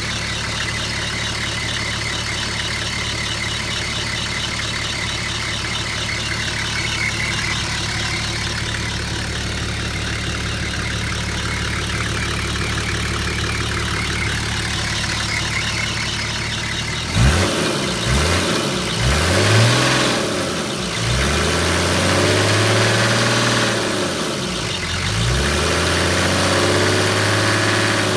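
Nissan Patrol diesel engine idling steadily after start-up, then revved up and back down several times, louder, through the last third.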